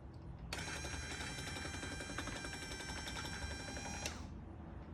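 Electric car window motor driving the mower's chute blocker door up through its gear and linkage: a steady whine that starts about half a second in and cuts off about four seconds in.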